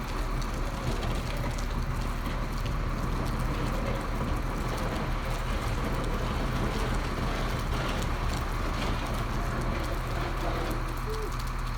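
Garbage truck running close by: a steady engine rumble with a noisy wash over it and scattered clicks and clatter.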